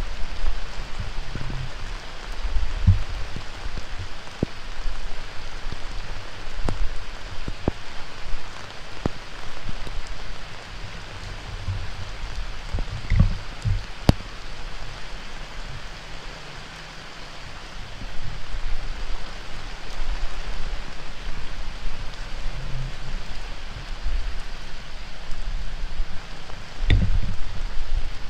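Heavy rain falling steadily, with scattered sharp drips and patches of low rumble, easing slightly in the middle.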